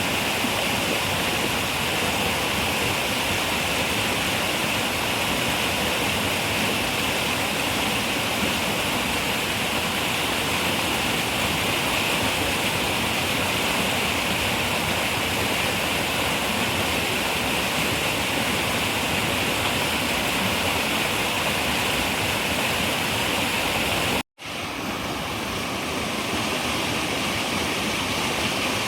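Running river water rushing steadily. Late on it cuts out abruptly to silence for a moment and then fades back in, the join of an edited loop.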